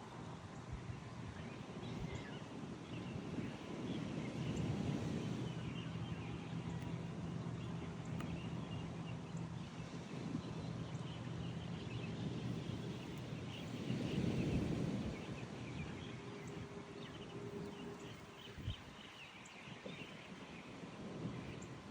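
Outdoor dawn ambience: birds chirping lightly over a low rumble that swells twice. A steady low hum runs from about four seconds in to about thirteen seconds in.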